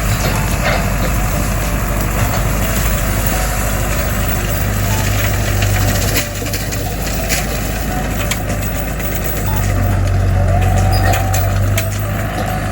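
John Deere 5410 tractor's diesel engine running hard while brush hogging overgrown brush, with scattered sharp cracks of cut wood. The engine drops in level about six seconds in and comes back up about three seconds later as the load changes.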